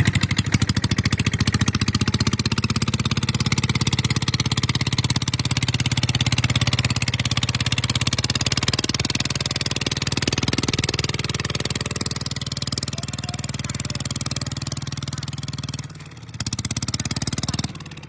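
Kubota ZT 150 walking tractor's single-cylinder diesel engine running steadily under load with a fast, even firing beat. The sound cuts out briefly about sixteen seconds in and falls away just before the end.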